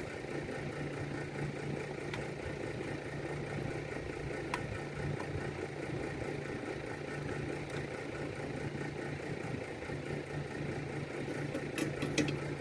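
A steady low mechanical hum, with a faint tick about four and a half seconds in and a few light clicks near the end.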